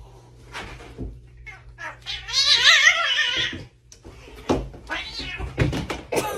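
A cat's drawn-out wavering yowl, lasting about a second and a half, a couple of seconds in. Several short thumps or knocks come before and after it.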